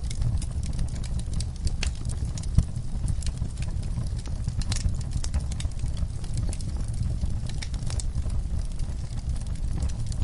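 Wood fire burning in a fireplace: irregular crackles and pops over a low steady rumble, with one louder pop about two and a half seconds in.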